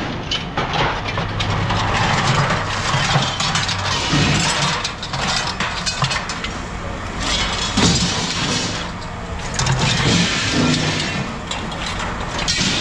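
A vehicle engine idling steadily, with scattered clanks and rattles of scrap metal being handled and dropped.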